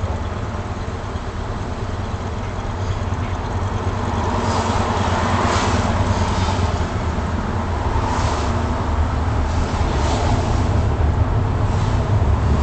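Patrol car driving, heard from inside the cabin: a steady low rumble of engine and tyres on the road, with a hiss that swells and fades several times.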